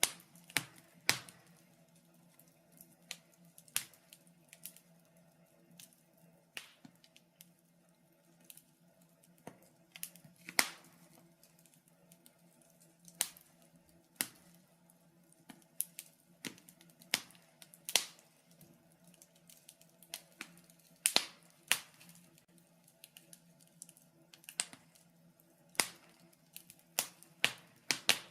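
Wood fire in a fireplace crackling, with irregular sharp pops at uneven intervals, a few much louder than the rest, over a faint steady low hum.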